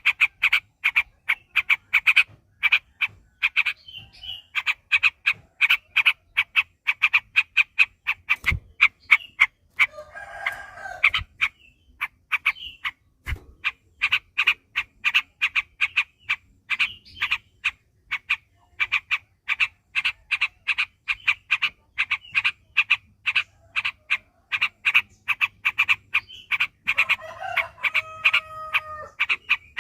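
Yellow-vented bulbul (trucuk) song: a long, fast chattering run of short repeated notes, several a second, with brief breaks, the long 'ropel' delivery used as a lure call. A lower, drawn-out call joins near the end.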